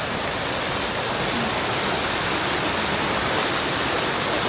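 Steady rushing of running water, an even noise holding at one level throughout.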